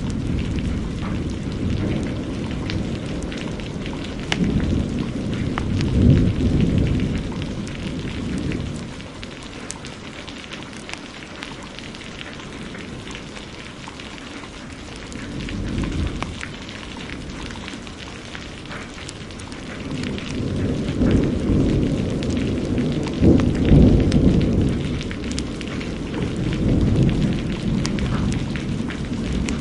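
Heavy rain hissing steadily while a wood fire crackles with many small sharp pops. Rolling thunder swells and fades several times: a long rumble in the first few seconds, a short one about halfway through, and the longest and loudest in the last third.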